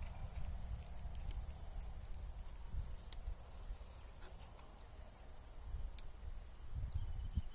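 Outdoor ambience: a low rumbling noise on the microphone under a steady high insect drone, with a few faint clicks and short bird-like chirps near the end.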